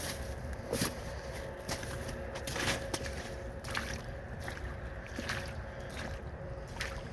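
Footsteps and rustling through grass and brush, short crunches at irregular intervals, over a low rumble of wind on the phone microphone.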